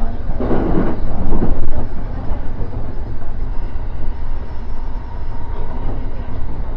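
E231-1000 series electric commuter train running along the line: a steady low rumble of wheels on rail, louder over the first couple of seconds, with a faint steady whine in the middle of the stretch.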